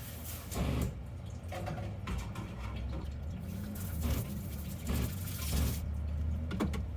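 Dishes being washed in a sink: water running in bursts and dishes clattering, over a steady low hum.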